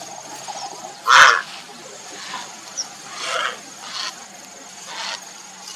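Grey heron giving short, harsh, croaking calls: one loud call about a second in, then several fainter ones.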